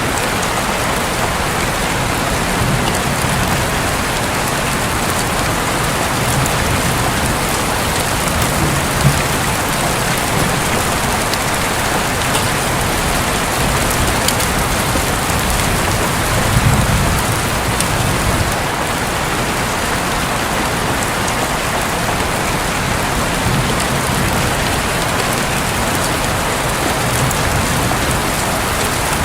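Steady rain drumming on a roof, with a low rumble of distant thunder swelling briefly about halfway through.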